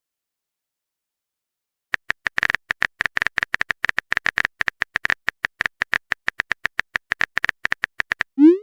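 Phone-keyboard typing sound effect: a fast, even run of short clicks, about seven a second, starting about two seconds in, then a short rising whoosh near the end.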